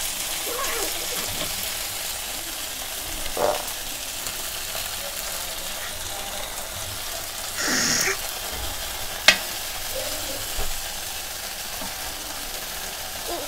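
Chicken tikka skewers sizzling steadily in a ridged grill pan, with a few short scrapes and one sharp click as the skewers are lifted out onto a plate.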